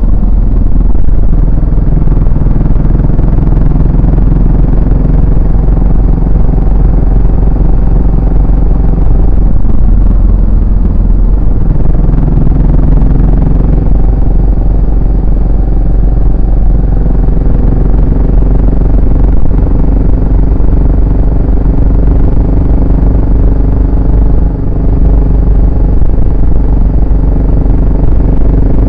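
Yamaha SR400's air-cooled single-cylinder four-stroke engine and exhaust while riding in traffic. The pitch rises and falls with throttle and gear changes: it climbs twice in the first half, then holds fairly steady.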